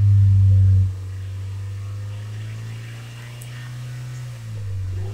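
2015 Hyundai Tucson's 2.0-litre four-cylinder petrol engine held at raised revs in Park, a steady drone. It is loudest for the first second, then eases slightly, and its pitch dips a little near the end.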